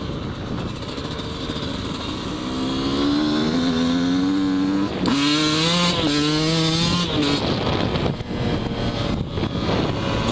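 Yamaha YZ125 two-stroke dirt bike engine running under throttle while riding, its pitch climbing slowly, with a brief cut and pickup about five seconds in and easing off about seven seconds in, over steady rushing wind noise.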